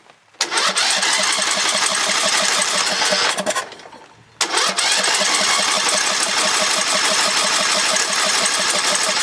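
Small lawn mower engine being cranked on starting fluid in two long tries, about three seconds and then about five, without starting. The spark plug wire is off.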